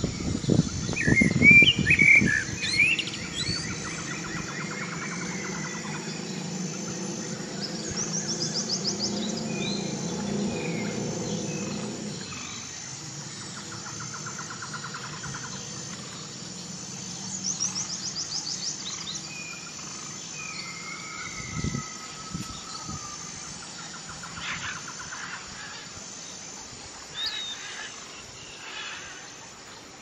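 Several songbirds calling and chirping against a natural background, with short whistled phrases and quick high trills. The loudest calls come in the first few seconds.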